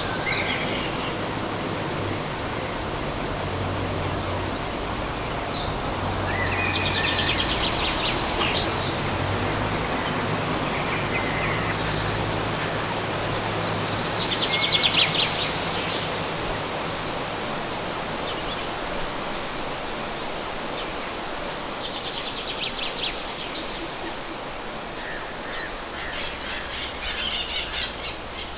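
Steady outdoor city ambience: a wash of distant traffic, with a low engine hum through the first half. A short, rapidly pulsed call repeats about every seven seconds.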